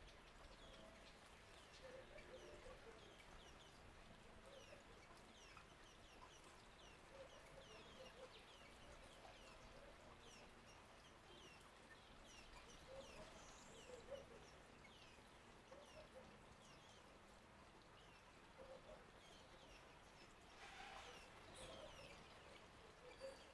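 Garden birds calling faintly around a flowing bird-bath fountain: many short, high, falling chirps, several a second, over scattered lower short calls. A brief noisy burst comes near the end.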